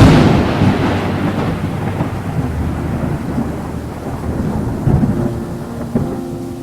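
A sharp thunderclap at the very start that rolls off into a long rumble fading over several seconds, with steady rain under it.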